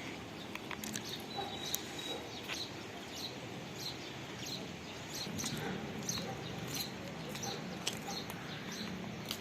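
Small birds chirping, many short high chirps scattered irregularly over a steady rush of water.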